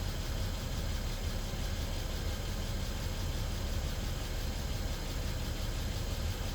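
BMW N55 turbocharged 3.0-litre straight-six idling steadily on its first run after an engine swap, sounding healthy.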